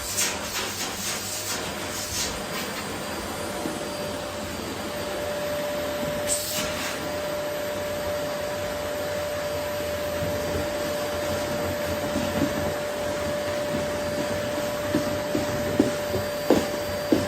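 Vacuum cleaner running steadily over a wooden floor picking up rose petals, a whooshing noise with a constant hum tone through it. A brief hiss about six seconds in and a few short sharp clicks near the end.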